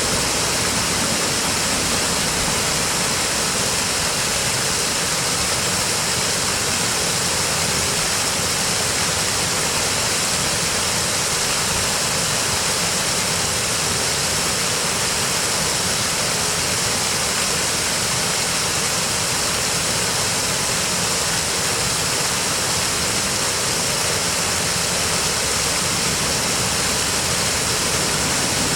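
Steady rush of a fast-flowing river, an even unbroken wash of water noise.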